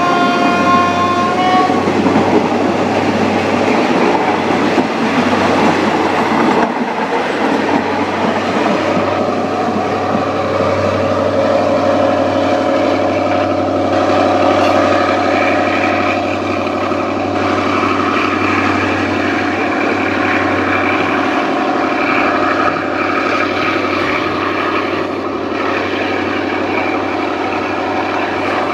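A train horn sounds for about the first two seconds. Then a State Railway of Thailand diesel passenger train runs past and away along the line, its carriage wheels clattering over the rails under a steady engine drone.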